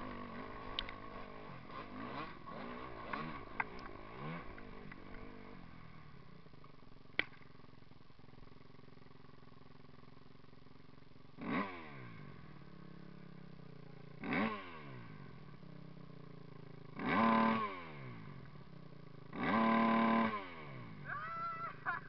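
Motocross bikes passing close by one after another. Engines run fainter with a few clicks in the first few seconds, then four loud pass-bys come in the second half, each engine's pitch dropping as it goes past.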